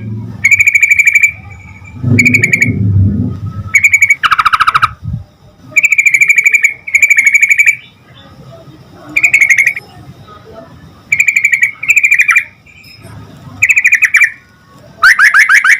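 Yellow-vented bulbul (trucukan) giving loud, rapid chattering calls in short phrases every second or two, with a longer run of fast notes near the end. A low rumble sits under the calls about two seconds in.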